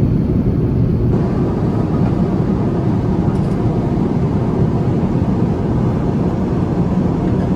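Steady airliner cabin noise in flight inside an Airbus A350-900: a constant low rush of air and engines. About a second in, the noise shifts slightly and takes on a bit more midrange.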